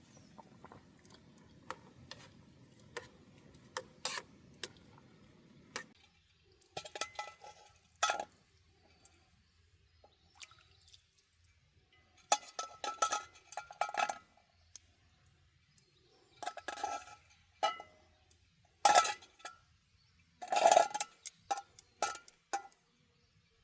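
Dishes and utensils clinking as they are handled, in scattered groups of sharp knocks. The struck piece rings briefly at the same pitch each time.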